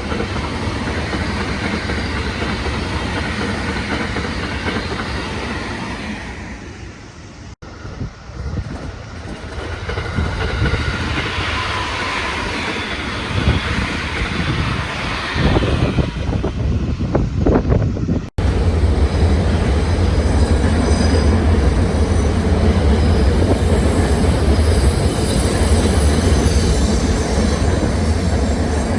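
Electric trains of the JR Kobe Line running through a station: a loud, steady rumble of the cars with wheels clattering over rail joints and some squealing. The sound breaks off abruptly twice, about seven and eighteen seconds in.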